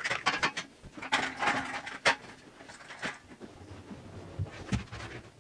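Steel spatula spreading and scraping tile adhesive over brick in a few irregular strokes, with quieter gaps between them.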